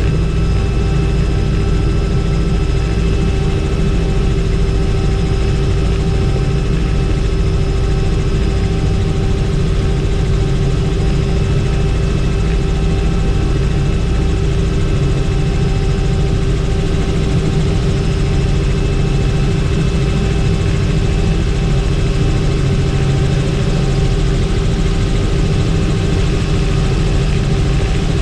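Helicopter in flight, heard from inside the cabin: steady, loud rotor and turbine noise with a constant high whine over a low rumble.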